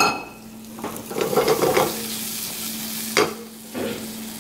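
Sliced onion and leek frying in oil in a pan over a gas flame, a steady sizzle. A ringing metal clank at the start and a sharp knock about three seconds in.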